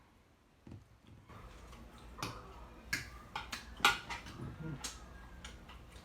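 A few sharp, irregular clicks and taps of eating at a table, utensils and dishes knocking, over a low steady hum; the loudest click comes near the middle.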